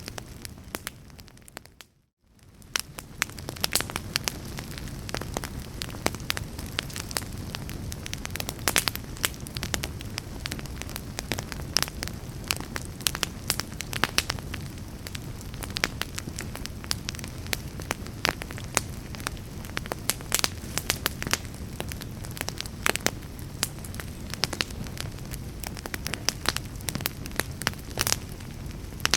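Fire in a fireplace crackling, with frequent sharp pops over a steady low rumble of flames. About two seconds in, the sound briefly fades out almost to silence and then fades back up.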